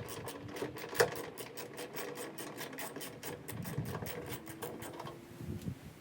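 Ratchet with a 10 mm socket clicking rapidly, several clicks a second, as a bolt is turned; the clicking thins out near the end.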